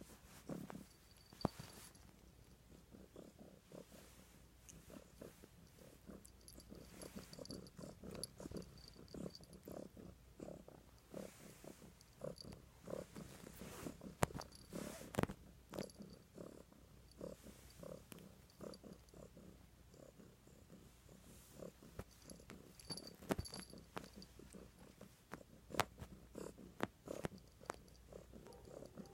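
Domestic cat purring steadily close by, with a few sharp clicks or taps scattered through.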